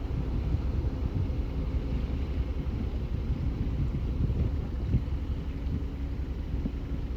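Wind buffeting the microphone: a low, uneven rumble that never lets up.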